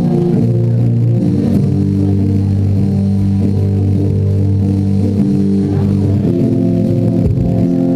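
Live band playing a slow song: electric guitar, bass and keyboard holding sustained chords that change a few times, with no singing.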